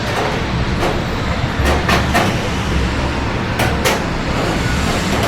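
Steady rain with scattered sharp drips ticking close by, over a low rumble of city traffic.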